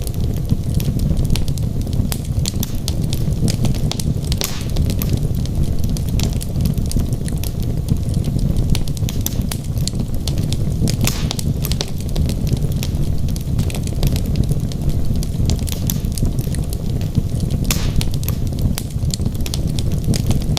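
Wood logs burning in a fireplace, crackling with frequent sharp pops and snaps over a steady low rumble of the fire.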